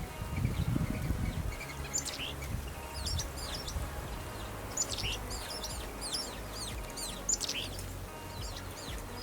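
Small birds chirping in quick, short, high calls that come in scattered clusters, with a low rumble during the first second or so.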